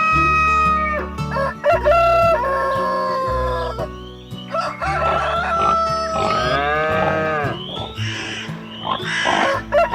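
Rooster crowing several times, long rising and falling calls, over background music with steady bass notes.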